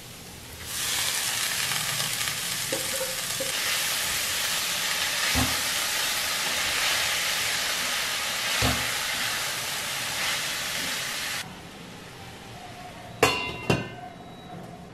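Chopped, washed drumstick leaves sizzling loudly in hot oil in a metal kadai as they are added and stirred with a metal spoon, which knocks against the pan twice. The sizzling cuts off suddenly about two thirds of the way in, and near the end a metal lid clanks twice with a ringing as it is set on the pan.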